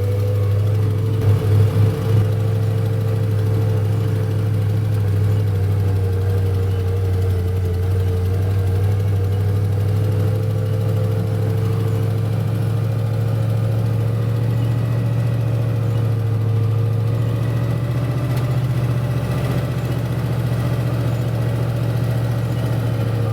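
Truck engine and drivetrain running at a steady speed in four-wheel drive on a snowy road, a continuous low drone whose pitch drifts only slightly. A few knocks come between one and two seconds in.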